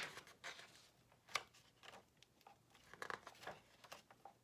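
Faint rustling and crinkling of paper pages as a picture book is opened and its pages turned, in several short bursts.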